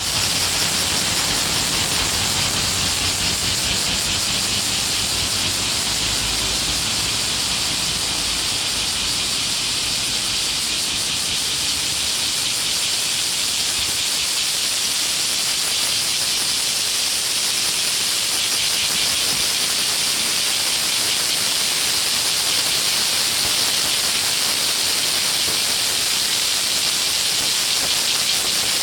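Chorus of many cicadas singing together, a steady, dense, shrill hiss that never pauses.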